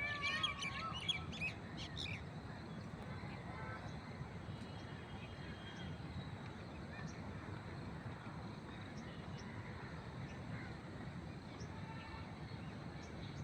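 Birds chirping and twittering for the first couple of seconds, then steady low background noise with scattered faint chirps.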